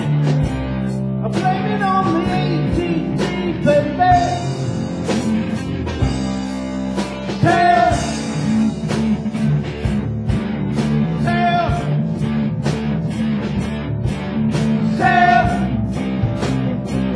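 Live band playing a rock song, with electric guitar, bass, a steady drum beat and a singing voice.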